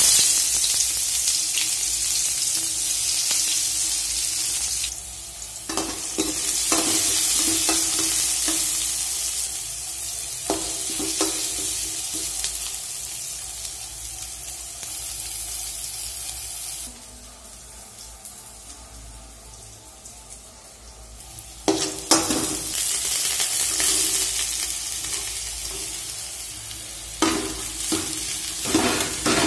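Sliced onions and chillies sizzling in hot oil in an aluminium kadai, with a metal spoon scraping and clicking against the pan as they are stirred. The sizzle starts suddenly, dies down past the middle, then flares up again about three-quarters through, with bottle gourd strips being stirred in the pan near the end.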